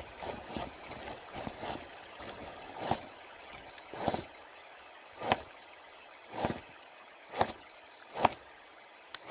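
Knife chopping onions on a cutting board: sharp knocks on a faint hiss, a quick run of them at first and then one about every second.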